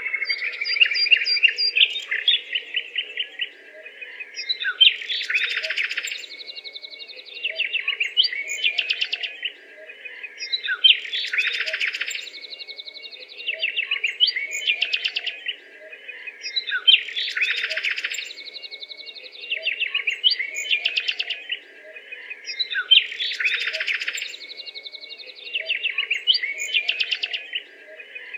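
Birds chirping and twittering, the same burst of rapid chirps coming back about every six seconds over a faint steady hum.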